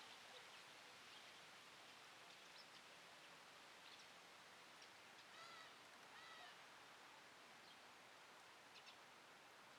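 Near silence: a steady faint hiss with a few faint high chirps from distant birds. About halfway there are two short arched bird calls, roughly a second apart.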